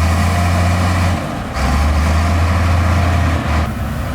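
Heavy diesel engine of earthmoving machinery running under load, with a deep steady hum that dips briefly a little over a second in and eases off near the end.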